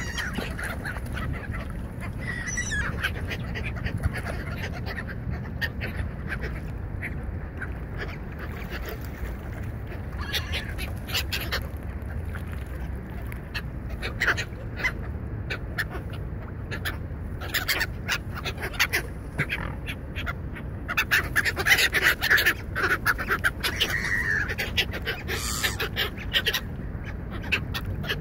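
Gulls and swans calling: a string of short squawks and honks, busiest and loudest near the end, over a steady low rumble.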